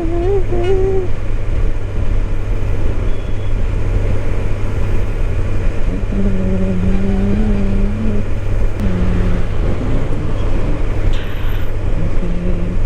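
Kawasaki Ninja 1000SX's inline-four engine running steadily under way, with steady road and wind noise.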